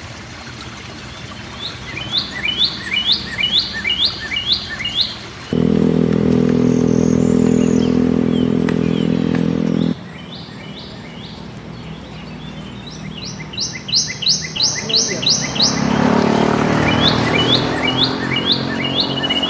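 A bird singing in bouts of repeated, quick, sweeping high notes, about two a second. A steady low hum cuts in suddenly about five seconds in and stops just as suddenly about ten seconds in, and a rushing noise builds near the end.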